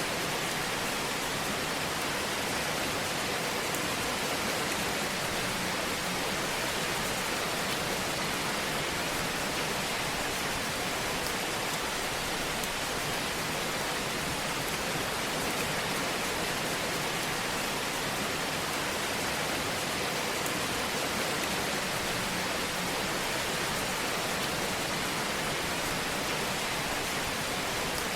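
Fireplace fire ambience: a steady, even hiss with no distinct pops standing out.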